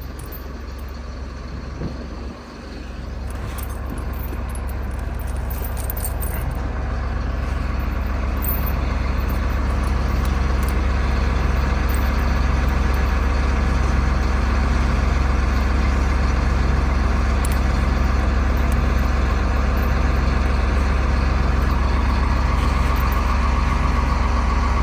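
Diesel engine of a Cat 914 compact wheel loader running steadily, growing louder over the first several seconds and then holding.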